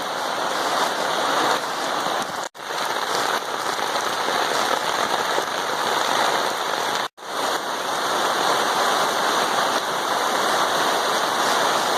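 Heavy rain pouring down in a steady, loud hiss. The sound breaks off for an instant twice.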